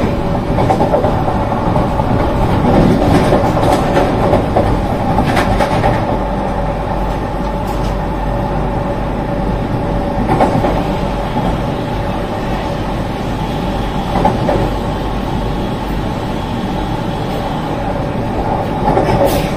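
Vande Bharat Express electric train set running at speed through a station without stopping: a steady rumble of wheels on rail, with a few short, louder knocks.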